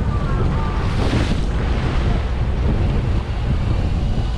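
Wind buffeting the microphone over a steady low rumble and the wash of the sea around a fishing boat, with a brief louder rush of wind or water about a second in.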